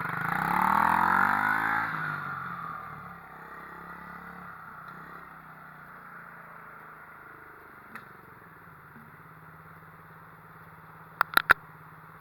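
Pit bike engine revving hard as the bike rides past, its pitch sweeping and loudest about a second in, then fading to a distant steady drone. Three sharp clicks come in quick succession near the end.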